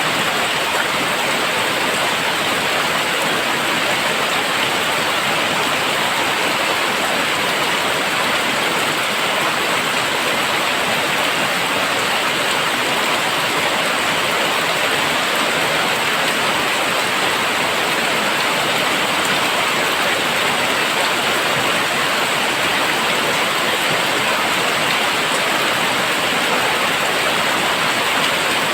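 Very heavy rain pouring down, a loud, steady, dense hiss with no let-up.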